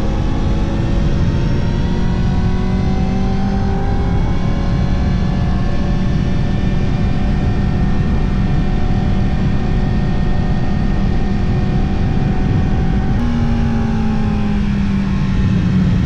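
Yamaha R1 inline-four engine running under load at steady revs, with a change in engine note about four seconds in. Near the end the revs jump up and then fall away, over a constant rush of wind noise.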